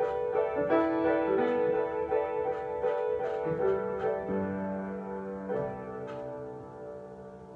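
Solo piano improvising slow chords, with new notes struck every second or so over sustained, ringing harmony. The playing grows softer, dying away toward the end.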